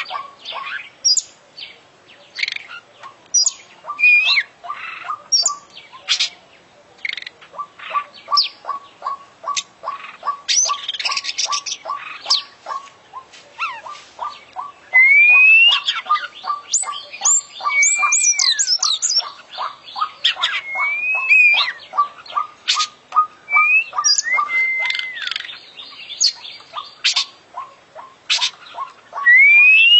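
Oriental magpie-robin (kacer) singing a varied song of loud whistled notes that swoop up and down, mixed with sharp chattering phrases. Under the song runs a regular series of short ticking notes, about three a second.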